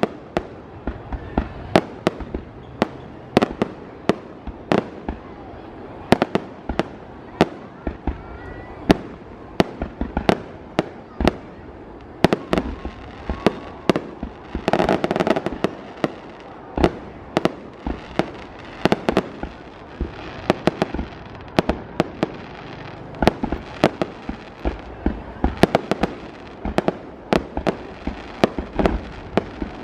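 Aerial fireworks display: a rapid, irregular series of sharp bangs and pops, several a second, with a denser, louder flurry about halfway through and again near the end.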